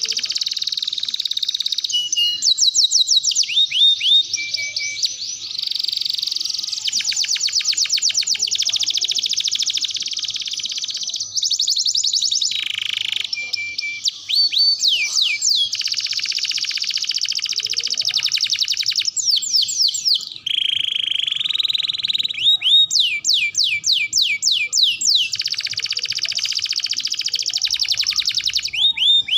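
Domestic canary singing a long, unbroken song: fast buzzy trills alternate with series of quick down-slurred whistled notes, the phrase changing every second or two.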